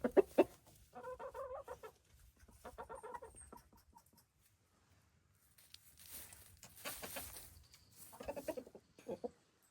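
Chickens clucking in several short bouts, with a stretch of rustling noise between about six and eight seconds in.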